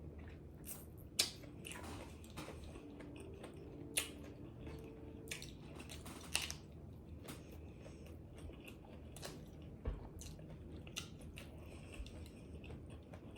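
Close-up eating: biting and chewing pizza tacos with crunchy shells, with sharp crunches every second or few.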